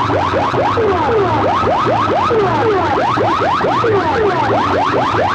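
Loud sound-system speakers blaring many siren-like electronic sweeps at once, rising and falling glides piled into a cacophony over a pulsing bass throb. Two rival sound systems are playing against each other in a sound competition.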